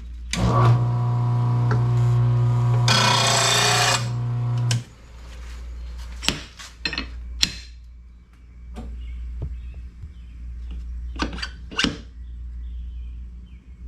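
RBG 712 mower-blade sharpener's electric motor running with a steady hum; about three seconds in the mower blade's edge is ground against it with a harsh grinding hiss. The motor cuts off sharply just before five seconds in, and scattered metal knocks and clicks follow as the blade is handled.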